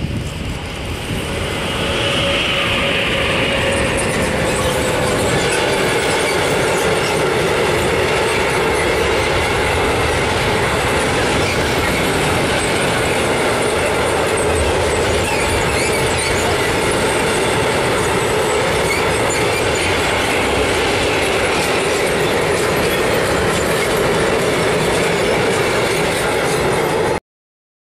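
Freight train double-headed by two ÖBB class 1216 (E190) Taurus electric locomotives passing through, followed by a long string of covered wagons rolling by with steady loud wheel-on-rail noise. The noise swells as the locomotives arrive, with a brief high tone two to four seconds in, and cuts off abruptly near the end.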